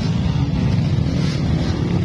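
Off-road trail motorcycle engine running steadily under throttle.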